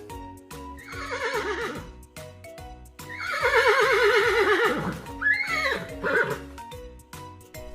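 Horse whinnying three times: a short whinny about a second in, a long quavering one falling in pitch through the middle, and a short one near six seconds. Background music plays underneath.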